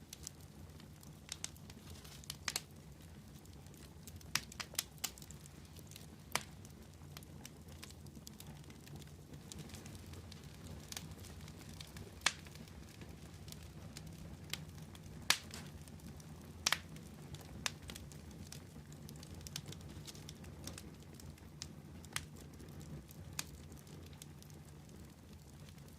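Wood fire crackling: irregular sharp pops and snaps, some louder than the rest, over a steady low rumble of the flames.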